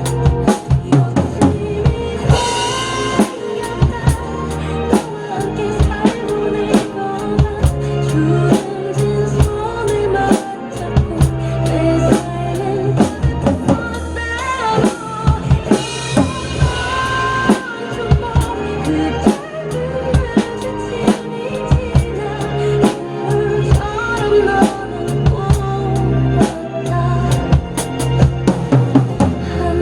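Acoustic drum kit played along to a pop ballad backing track: steady kick and snare strikes over piano and strings, with a crash cymbal about two and a half seconds in and again around sixteen seconds in.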